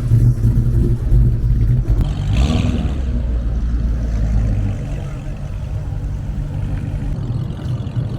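A car engine running with a steady low rumble, with a brief higher-pitched rasp about two and a half seconds in; the rumble eases a little about five seconds in.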